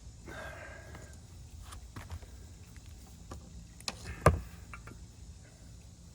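Workshop handling sounds as plywood panels and tools are worked on a bench: a short pitched whir near the start, then two sharp knocks close together about four seconds in.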